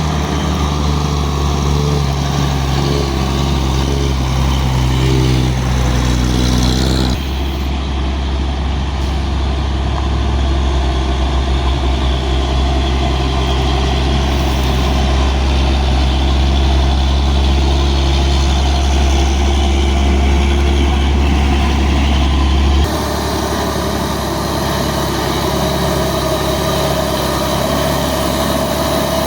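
Heavy diesel truck engines running steadily. The sound changes abruptly about 7 and 23 seconds in, as one engine gives way to another.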